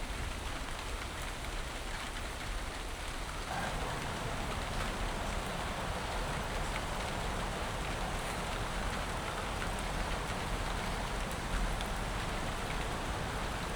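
Steady rain falling, an even hiss that grows a little fuller about three and a half seconds in.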